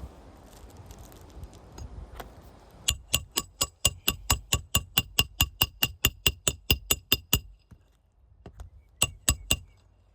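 Rapid metal-on-metal tapping of a hand tool during shingle work, each tap ringing with the same bright note, about five taps a second for some four seconds, then a few more taps near the end.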